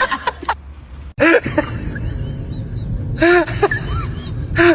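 An animal making short calls that rise and fall in pitch: one about a second in, two near three seconds, and another near the end.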